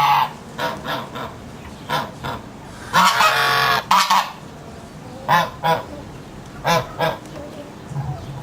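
Birds calling repeatedly in short calls, with one longer call about three seconds in.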